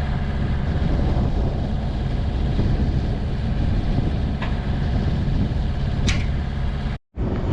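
A heavy machine's engine running steadily, with two short clicks about four and a half and six seconds in; the sound drops out abruptly for a moment about seven seconds in.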